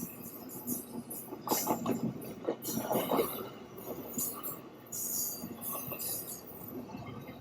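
Long container freight train rolling past, its wheels and cars clattering unevenly on the rails with scattered knocks.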